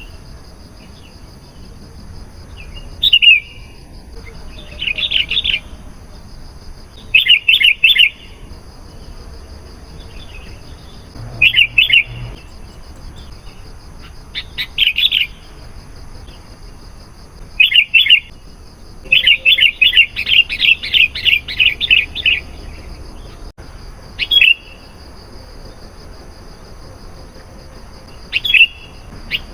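Sooty-headed bulbul (kutilang) singing: short bubbling phrases of quick notes every couple of seconds, with one longer run of rapid notes about two-thirds of the way through.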